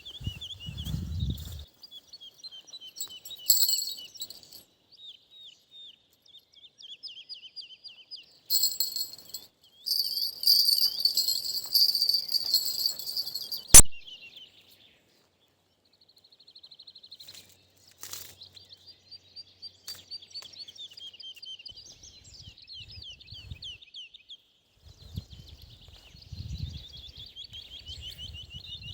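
Songbirds singing, quick high chirps repeating throughout, with a louder, brighter stretch of song about a third of the way in. A single sharp click comes near the middle, and a few low thuds are heard near the start and toward the end.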